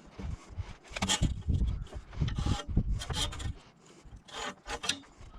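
Handling noises in a workshop: irregular rubbing and scraping with light knocks, as items are moved about and shifted by hand.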